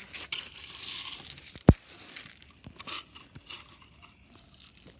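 Scraping and crunching of loose ground being scooped and poured with toy digging tools, with one sharp knock about two seconds in.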